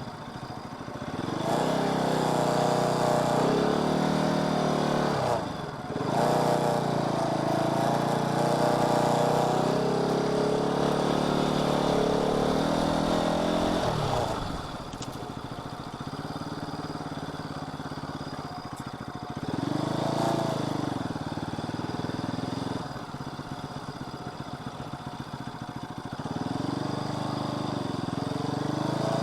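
Car engine running while driving, its pitch climbing and dropping again several times as it speeds up and changes gear.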